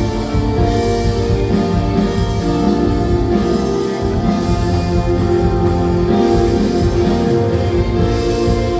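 Worship band playing an instrumental passage: sustained keyboard and synthesizer chords with electric guitar, bass and drums, with cymbal swells about a second in and near the end.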